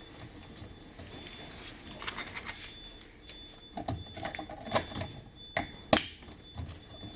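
Scattered clicks and knocks from hands handling tools and parts, growing busier after about four seconds, with the loudest sharp knock about six seconds in.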